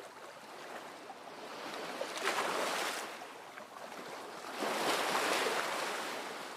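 Waves washing onto a lakeshore, the noise swelling and fading in surges about every two and a half seconds.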